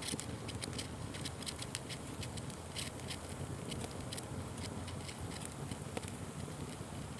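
Wood fire crackling: many irregular sharp snaps and pops over a low steady rumble.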